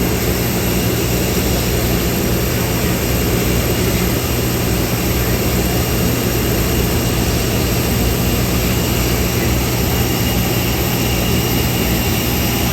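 Steady drone of an airplane in flight heard inside the passenger cabin: an even rush of air and engine noise with a low hum and a faint high whine, unchanging throughout.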